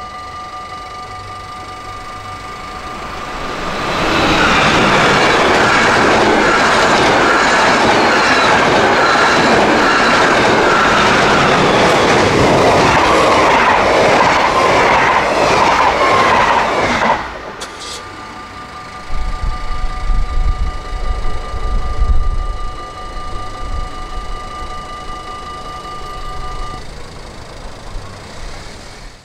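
Dutch level-crossing warning bell ringing steadily, then a yellow-and-blue NS double-deck electric train passing at speed from about four seconds in, its wheel and rail noise covering the bell for some thirteen seconds before cutting off abruptly. The bell rings on, with a low rumble for a few seconds, and stops near the end as the barriers lift.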